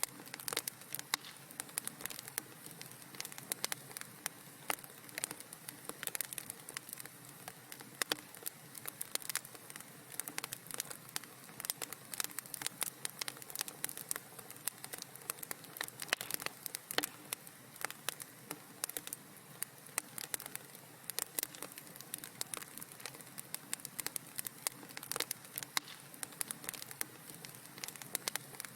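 Wood fire crackling: a dense, irregular run of sharp pops and snaps over a faint steady hiss of burning.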